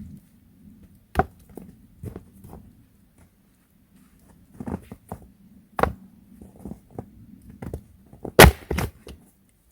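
Scattered knocks and taps on wood, a second or more apart, the loudest a sharp knock near the end.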